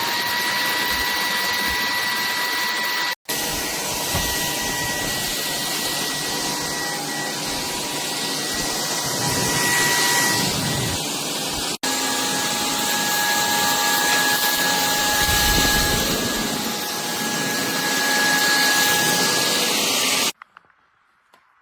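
SKIWEC cordless stick vacuum running, a steady rush of suction with a high motor whine. It breaks off twice for an instant, the whine a little lower after the second break, and then stops abruptly near the end, leaving a few faint clicks.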